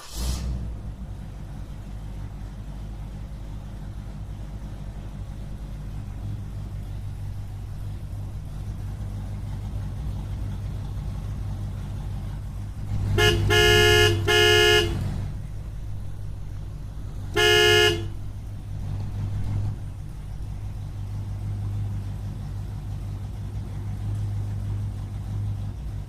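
Steady low engine rumble with a vehicle horn honking twice in quick succession about halfway through, then once more about three seconds later.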